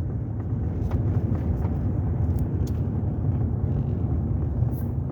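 Steady low rumble of a vehicle's engine and road noise heard from inside the cab while driving slowly, with a few faint clicks.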